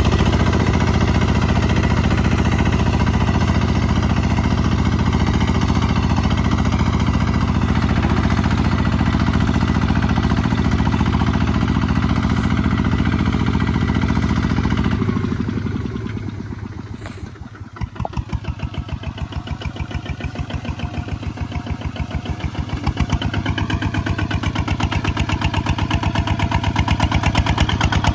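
Kubota ZT155 DI single-cylinder diesel engine running steadily. About halfway through it slows and drops in level, with each firing stroke heard separately, then picks up speed again.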